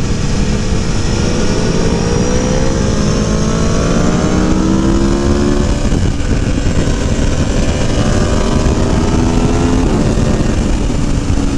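Aprilia Tuono V4 Factory's V4 engine pulling hard, its pitch climbing through a gear, dropping at an upshift a little past halfway, climbing again, then dropping at another shift near the end. Steady wind rush runs under it.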